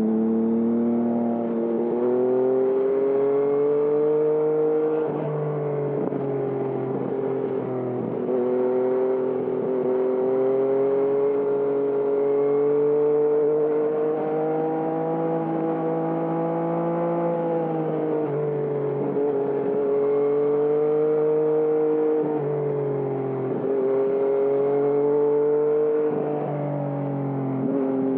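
2020 Yamaha MT-09's three-cylinder engine through a Termignoni exhaust, riding under load: the engine note climbs on the throttle and drops back sharply about five times, as it does when shifting or rolling off into bends.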